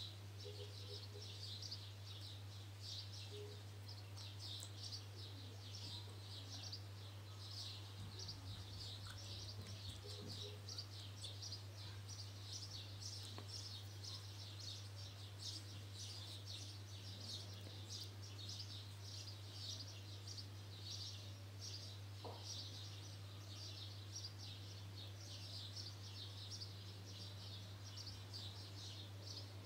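Faint, continuous chirping of small birds, many overlapping high chirps, over a low steady hum.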